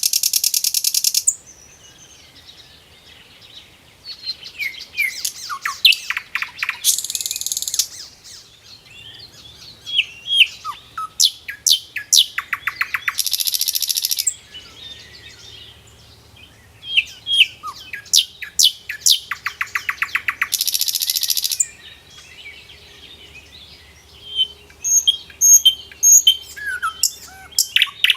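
A songbird singing the same song phrase over and over, about every six or seven seconds: a run of quick chirps and trills, each phrase ending in a harsh, buzzy note about a second long, with short quiet gaps between phrases.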